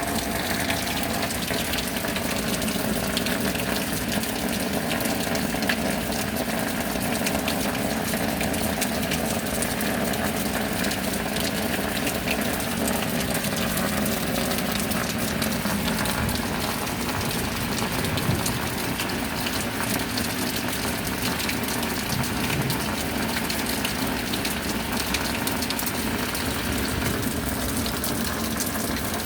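Steady rain, a constant rush of falling water with a fine, dense patter of drops that does not let up.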